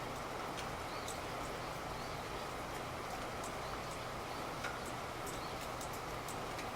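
Steady rain falling, an even hiss with scattered sharp ticks of drops striking at irregular intervals.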